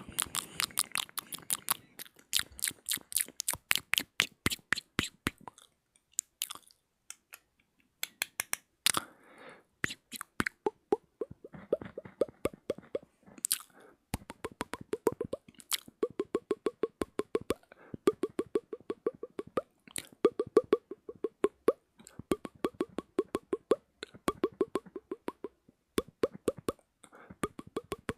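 ASMR mouth sounds close to the microphone: fast runs of wet tongue clicks and lip pops with short pauses between them. In the second half the pops take on a hollow, pitched, popping tone.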